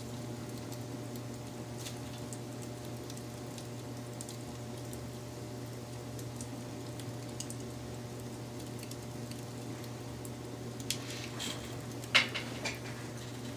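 Wood fire crackling: scattered small snaps over a steady low background, with a quick run of louder pops about eleven to thirteen seconds in.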